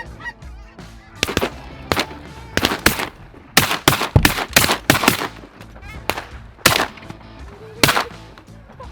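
A rapid volley of about a dozen shotgun shots from several hunters firing at incoming geese, starting about a second in and ending near the end. Goose honking is heard between the shots.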